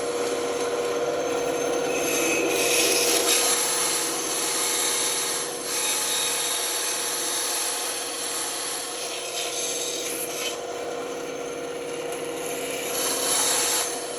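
Band saw running with a steady hum while its blade cuts through wood. The cutting noise swells and eases several times as the piece is fed into the blade.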